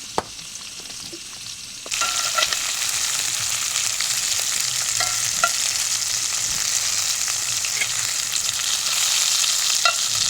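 Chicken pieces frying in butter in a hot cast iron pan over a wood fire: a steady sizzle with small scattered pops that starts suddenly about two seconds in. Before it, a quieter stretch with a single sharp snap.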